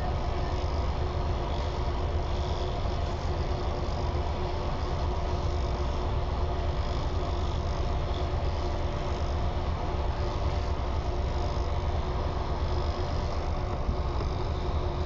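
Steady low engine rumble with constant background noise, even throughout with no sudden sounds, like a vehicle engine heard from inside.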